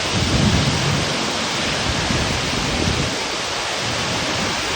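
Heavy rain pouring down in a steady, dense hiss, with brief low rumbles about half a second in and again near three seconds.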